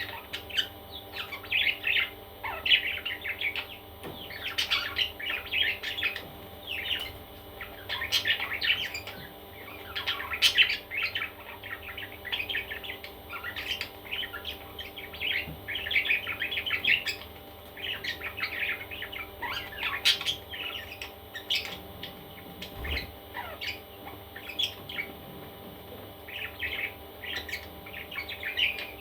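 Parrot chicks chirping almost without pause, many short high chirps in quick overlapping clusters.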